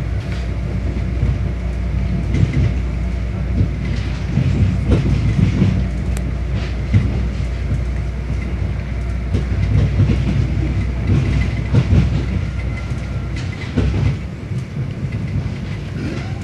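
Passenger train running over the station tracks, heard from inside the carriage: a steady rumble of wheels on rails with irregular clacks and knocks.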